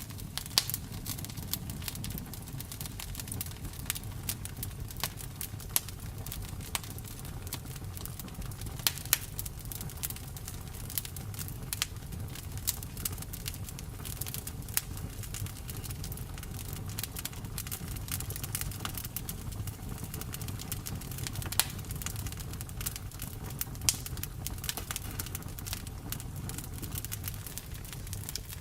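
Campfire burning, with irregular sharp pops and snaps of the wood over a steady low rumble of the flames.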